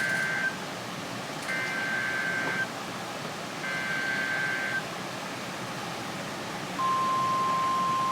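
NOAA Weather Radio alert signalling over radio hiss: three short bursts of warbling digital SAME header data (Specific Area Message Encoding), about two seconds apart. Near the end comes the steady 1050 Hz warning alarm tone, which marks a new severe weather warning about to be read.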